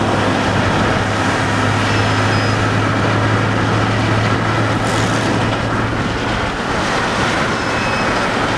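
Steady vehicle noise heard inside a car, with a low hum that fades out about five seconds in.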